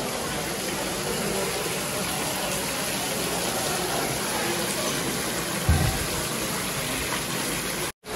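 Steady rushing noise of storm wind and rain, with a short low buffet of wind on the microphone about six seconds in. The sound cuts off abruptly just before the end.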